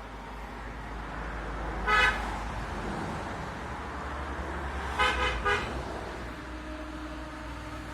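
A horn honking: one short honk about two seconds in, then three quick honks about five seconds in, over a steady low hum.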